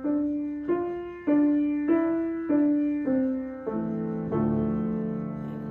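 Piano playing a slow legato melody of single notes, about one every 0.6 s, each held into the next, then a held chord about three-quarters of the way through.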